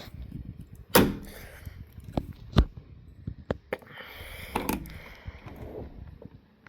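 A series of sharp bangs and knocks, the loudest about a second in and another strong one a little over two and a half seconds in, the first with a short ring after it.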